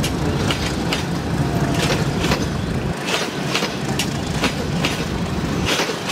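Passenger train coaches rolling past with a steady rumble, their steel wheels clacking repeatedly over the rail joints.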